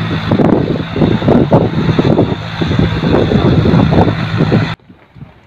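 Steady low engine hum under heavy wind buffeting on the microphone; it cuts off abruptly near the end, leaving only quieter wind buffeting.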